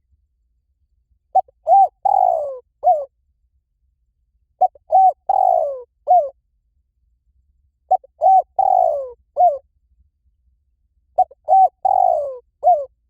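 Spotted dove cooing its song four times, evenly spaced about three seconds apart. Each phrase is two short coos, a longer rough coo that falls in pitch, and a final short coo.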